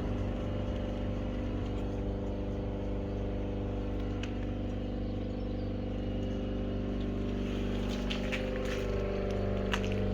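Refrigeration condensing units running with a steady, even hum made of several constant tones, with a few light ticks near the end.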